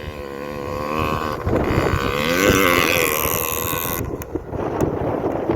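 Dirt bike engine revving, its pitch climbing for about two seconds, peaking, then falling away.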